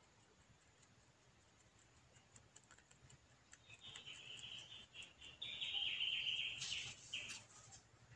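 A small bird chirping in a rapid, choppy run of high notes that starts about halfway through, grows loudest near the end, then stops.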